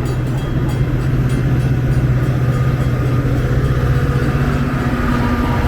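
Metra commuter train's diesel locomotive running steadily with a low, even hum, the train standing or creeping at the station platform.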